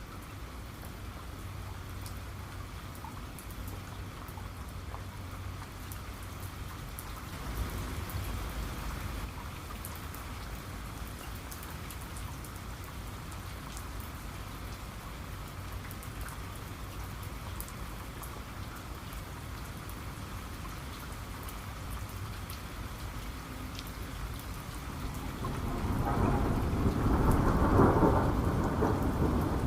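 Steady rain falling, with thunder: a brief low rumble about a quarter of the way in, and a louder rumble of thunder building near the end.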